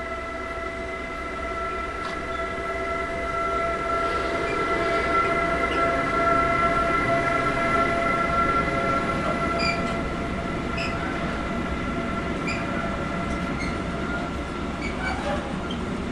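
A train running past: a steady whine of several tones over a rumble that swells from about four seconds in. In the second half come a few separate clicks of wheels over rail joints.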